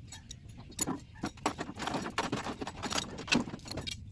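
Close handling noise: a run of irregular clicks, knocks and rustling as a camera is picked up and carried.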